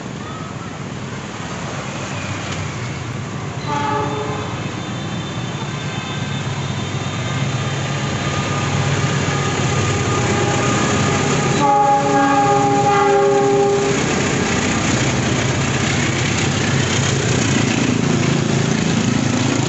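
An express passenger train's diesel locomotive sounds its horn: a short blast about four seconds in, then a longer one of about two seconds near the middle. Under the horn, the rumble and clatter of the train on the rails grows louder as the coaches pass at speed.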